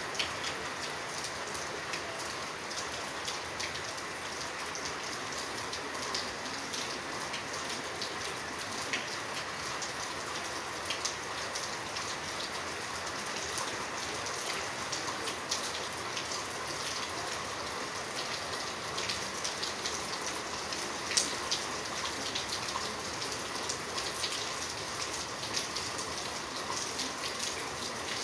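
Steady rain falling, with individual drops ticking and spattering close by.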